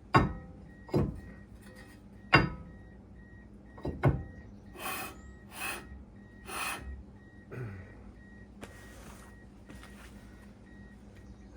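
Sharp metallic knocks and clanks of work on a car's brakes, about five of them in the first four seconds, then a few short hissing scrapes. A faint, steady repeating beep runs underneath, like a car's key-in-ignition warning chime.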